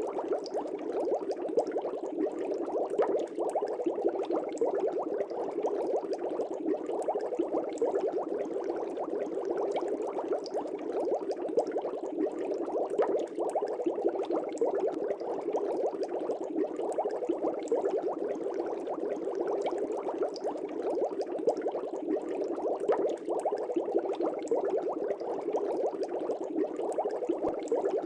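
Aquarium air bubbles rising and breaking at the surface of a fish tank: a steady, dense bubbling with a constant stream of small pops.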